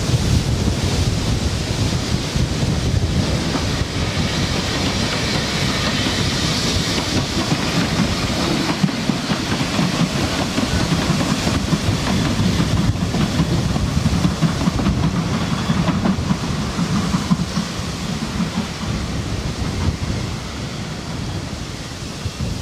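Narrow-gauge steam train running past, its coaches rumbling and clattering on the track, fading over the last few seconds as it draws away.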